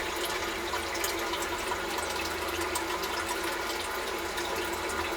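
Sump pump running with a steady rush of water, running constantly because groundwater keeps seeping in after heavy rain.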